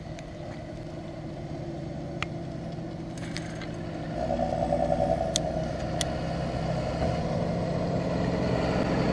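Diesel engine of a large farm machine running steadily, with a few sharp clicks. The sound swells briefly about four to six seconds in.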